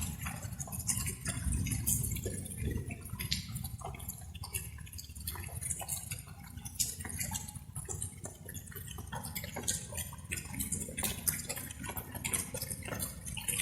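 Light rain: water drops falling and dripping in an irregular patter over a steady low rumble.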